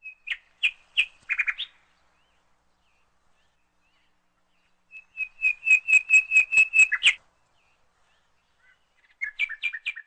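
Bird chirping in runs of quick, repeated high notes: a few at the start, a fast string of about ten in the middle, and another short run near the end.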